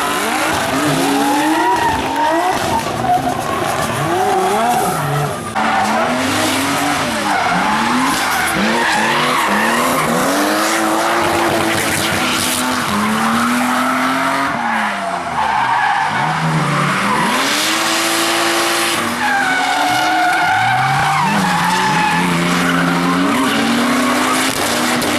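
Drift cars sliding through a course, engines revving hard and dropping back over and over while the tyres squeal and skid.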